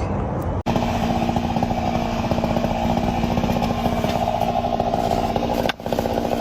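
Chainsaw engine running steadily at high revs, with a constant pitch. It breaks off sharply for an instant less than a second in and again near the end.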